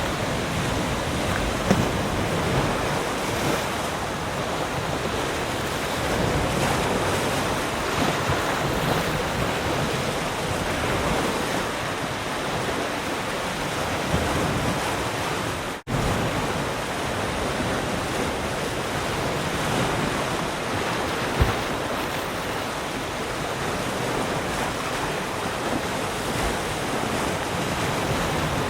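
Sea surf: waves breaking and washing on the shore as a steady rush of noise, with a very brief dropout about halfway through.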